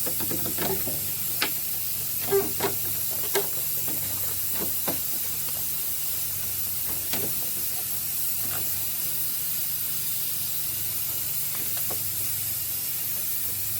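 Steady hiss of steam escaping from a pressure canner used as a steam generator for a pipe steam box, with a low steady hum under it. Short sharp knocks and taps come about a dozen times, mostly in the first few seconds.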